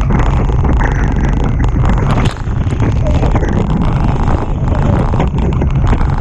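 Strong wind buffeting the microphone and water rushing past the hulls of a Hobie Tiger catamaran sailing fast; a loud, steady rushing noise with a heavy low rumble.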